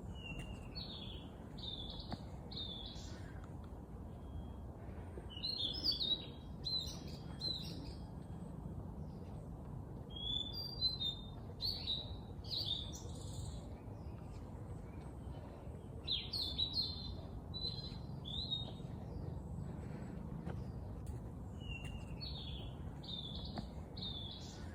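A songbird singing short phrases of three or four quick notes, a new phrase about every five to six seconds, over a steady low rumble.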